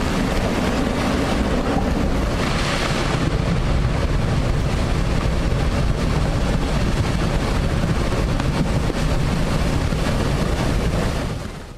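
Loud, steady rushing of floodwater mixed with wind buffeting the microphone, dying away near the end.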